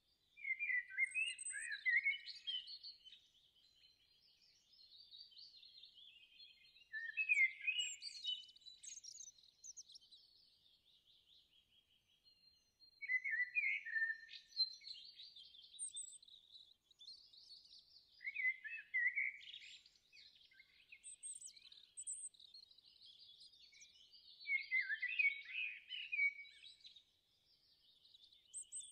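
Songbirds singing: louder bursts of chirps and trills every few seconds, with softer twittering between.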